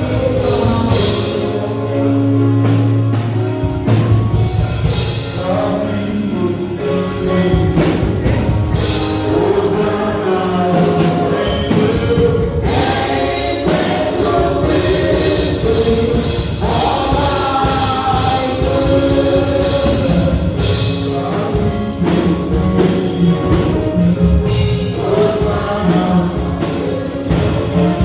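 Gospel music: a choir singing with instrumental accompaniment, a steady beat coming in about four seconds in.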